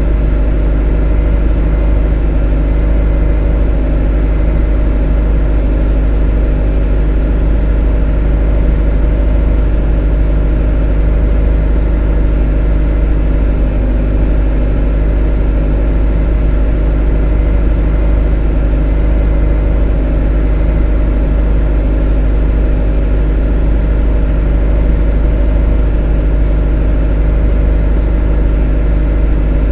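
Motor running steadily and unchanging: a deep, even hum with a stack of steady tones above it.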